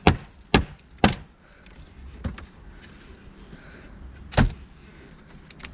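Sharp knocks of tool work on wooden wall boards being taken apart: three quick strikes within the first second, a fainter one a little after two seconds, and a louder one past four seconds.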